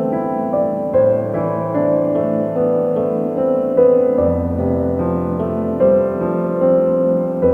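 Slow background piano music of held notes changing about once a second, with a low bass note coming in about four seconds in.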